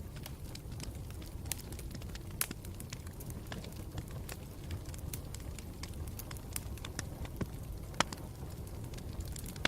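Campfire burning: a steady low rumble of the flames with irregular sharp crackles and pops, the loudest pops at about two and a half seconds and eight seconds in.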